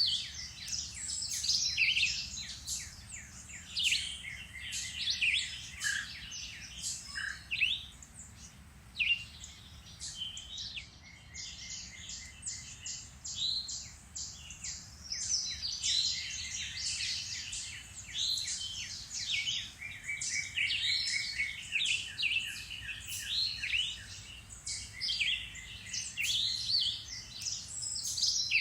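Several songbirds singing at once in a dense spring chorus: overlapping chirps and whistles with rapid trills mixed in.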